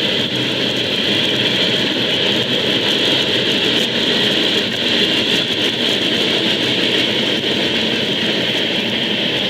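Diesel railway locomotives running steadily, a constant engine rumble under a high steady whine.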